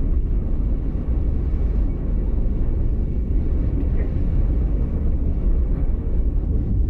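Steady low rumble of a passenger train running along the track, heard from inside a carriage.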